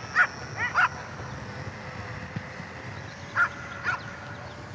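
Short, sharp animal calls: three within the first second, then two more about three and a half and four seconds in.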